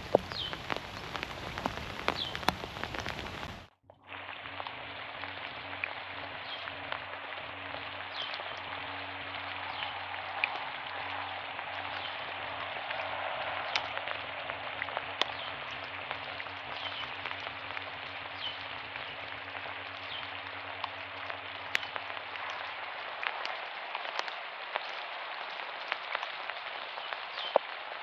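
Steady rain falling, with many single drops ticking close by. It drops out briefly about four seconds in, then resumes with a faint low hum underneath that fades a few seconds before the end.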